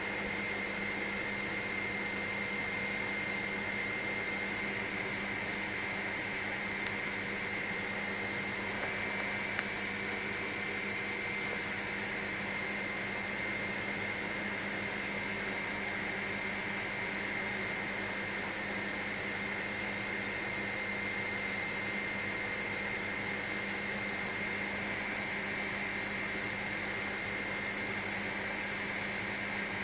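Helicopter cabin noise in steady flight: a constant hum with a high, steady whine on top, unchanging throughout.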